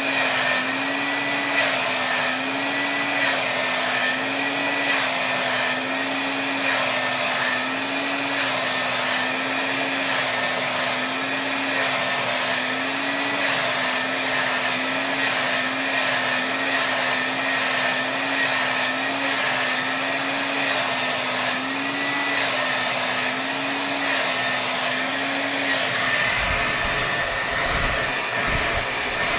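Hair dryer blowing steadily at full power, its motor pitch wavering slightly every second or two. Near the end the motor tone fades and a low rumbling comes in.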